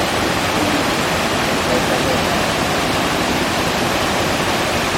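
Steady, loud rush of water from a hot spring waterfall.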